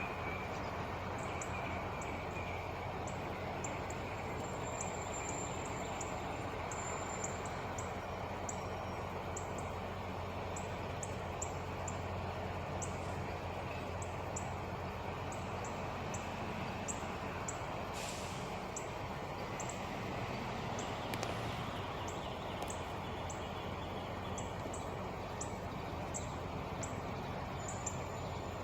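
Steady low hum of an idling truck engine, with small birds chirping in short repeated high notes over it.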